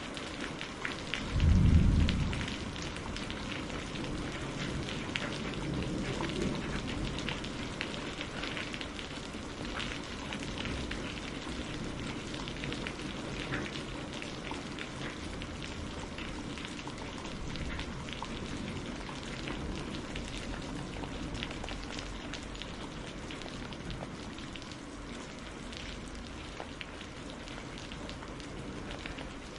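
Steady rain falling on a greenhouse roof, with many separate drops hitting. A brief low rumble of thunder comes about two seconds in, the loudest moment, and a fainter one follows a few seconds later.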